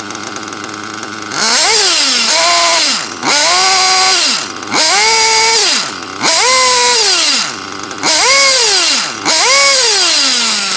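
Nitro RC buggy engine with an EFRA 2053 tuned pipe idling, then revved hard six times in quick succession, each rev rising sharply in pitch and falling back to idle. The warmed-up engine responds snappily to the throttle.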